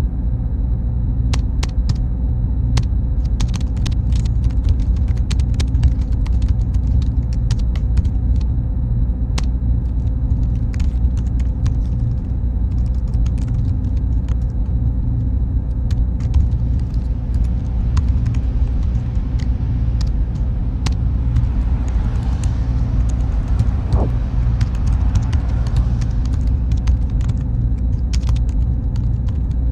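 Server room ambience: a steady low hum of machines and cooling fans with a faint high whine, and scattered sharp clicks throughout.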